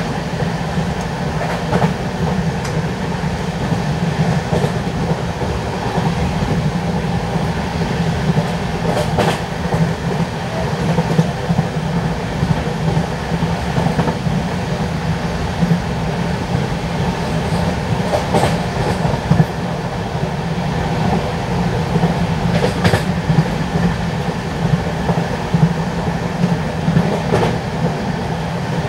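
LHB passenger coach running at speed: a steady wheel-on-rail rumble, with a few sharp clicks scattered through it.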